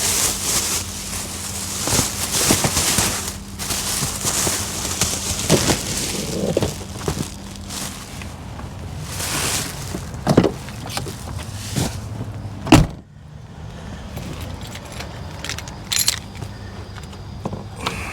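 Vehicle engine idling with a steady low hum while things are handled, with rustling and scattered knocks. About 13 seconds in a door shuts with a loud thud, and the outside noise drops away after it.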